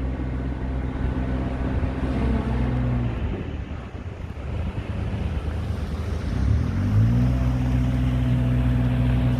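Motor vehicle engine hum, steady and low, fading out about three seconds in; near the middle only a rushing noise remains, then an engine sound rises in pitch around seven seconds in and holds steady.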